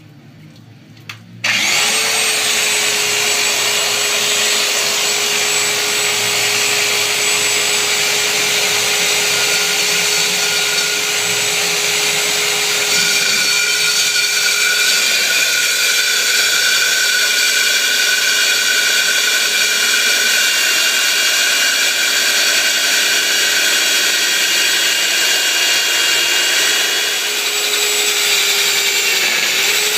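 Electric metal-drilling machine motor switching on about a second and a half in and running steadily at full speed, with a constant whine over a loud whirr; the pitch dips briefly near the end and recovers.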